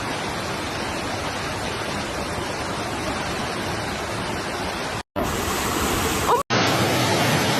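Fast-flowing floodwater rushing steadily, with two abrupt breaks about five and six and a half seconds in where one stretch of the sound cuts to the next.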